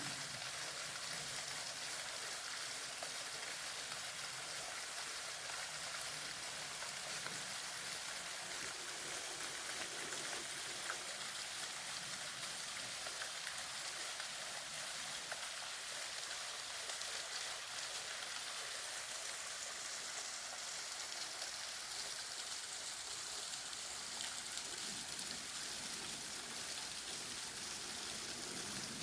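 Mountain stream running over rocks in a valley: a steady, even rush of water.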